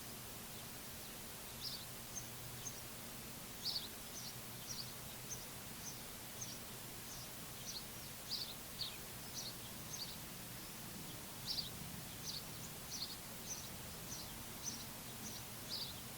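A small songbird chirping over and over, short high chirps about twice a second, over a steady background hiss.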